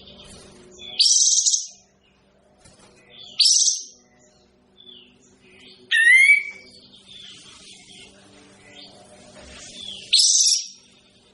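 A kapas tembak songbird calling: four loud, sharp, high phrases come a few seconds apart, with softer chirps between them. A faint steady low hum runs underneath.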